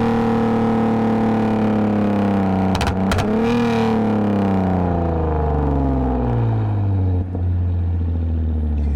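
Exhaust of a 2010 Lexus IS250 AWD's 2.5-litre V6, through a full aftermarket exhaust with valved mufflers, falling steadily in pitch as the car slows. About three seconds in, a downshift briefly breaks the sound and kicks the revs back up, then they sink slowly again.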